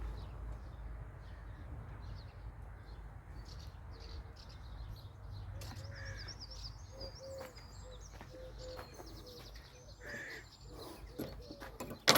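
Wild birds calling and chirping: a run of short repeated notes and a few high chirps over a low rumble, with occasional faint clicks.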